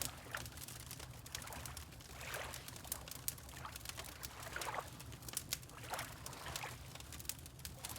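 Water lapping in soft swells every second or two, over the scattered crackles and pops of a wood fire burning, with a steady low rumble underneath.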